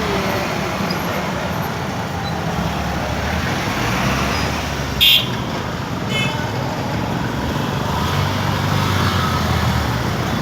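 Road traffic going past: a steady rumble of vehicles, with a short, sharp high-pitched sound about five seconds in and a fainter one about a second later.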